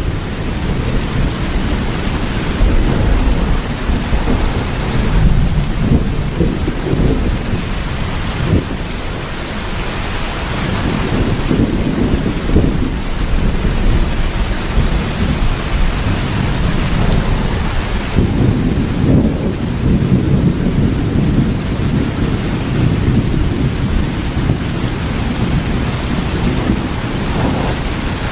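Steady rain falling, with a continuous deep rumble of thunder underneath that swells and eases several times.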